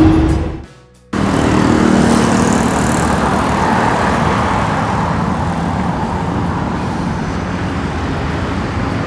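Sound fades to a brief moment of near silence about a second in, then steady road traffic noise from passing cars follows.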